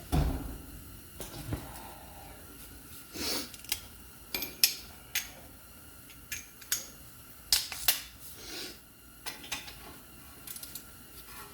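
Metal hand tools clinking and clicking at irregular intervals against the brake hardware while bolts are tightened down.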